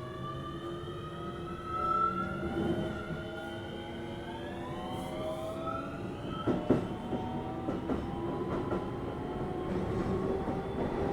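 Keio 7000 series electric train heard from on board, its motor whine rising steadily in pitch as it gathers speed. A few sharp wheel clacks come over rail joints about six and a half seconds in.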